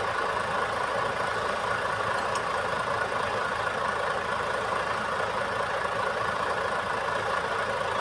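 Heavy truck's diesel engine running steadily at a constant speed.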